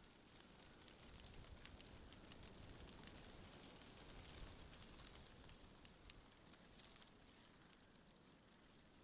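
Faint wind rustling through tree leaves, swelling after about a second and easing off again, with scattered light crackles.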